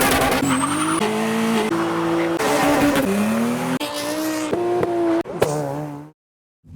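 Quick-cut run of modified cars' engines revving and accelerating hard, each clip about a second long with a different engine note, some holding revs and some falling or climbing in pitch. It cuts to silence near the end.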